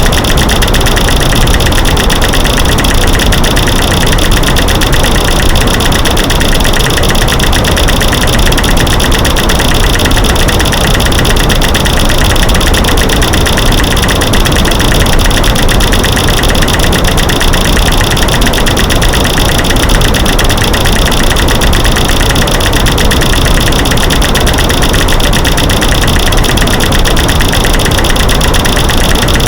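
Loud, dense stream of rapid clicks and knocks over a white-noise hiss: light switches clicking, sticks snapping and rocks knocked together, mixed into a masking track.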